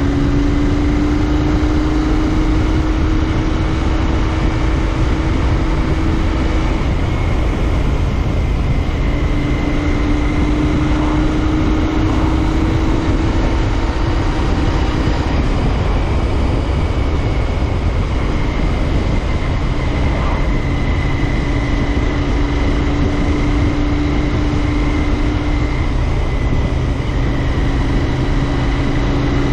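Royal Enfield Interceptor 650's parallel-twin engine running at a steady cruise on the move, its tone holding level, under a heavy rush of wind and road noise.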